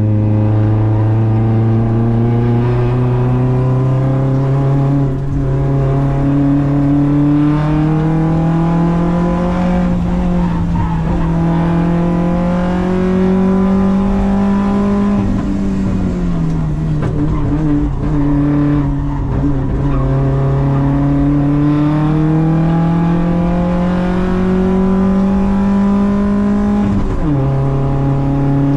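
Audi quattro race car's engine under hard acceleration, heard from inside the cabin. The pitch climbs slowly, falls back smoothly about halfway through, climbs again, and drops suddenly near the end at a gear change.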